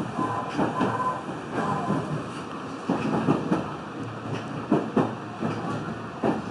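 Meitetsu 3100 series electric train running, heard from inside the car: a steady rumble with repeated clacks as the wheels pass over rail joints.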